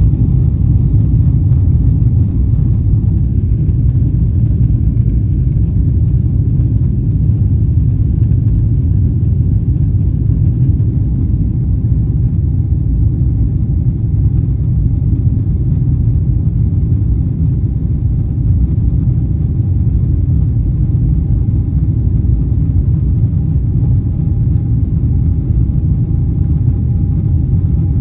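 Inside an airliner cabin during takeoff: the jet engines at takeoff thrust make a loud, steady low rumble, with a faint steady whine that comes up about halfway through.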